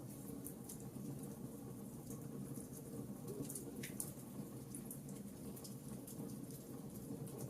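Fireplace fire crackling: a low steady rumble of flames with small pops and crackles scattered at irregular intervals.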